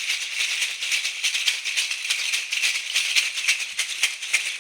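Hand rattle shaken in a fast, even rhythm: a dense run of small rattling strokes with a bright, hissy sound and no deep tone.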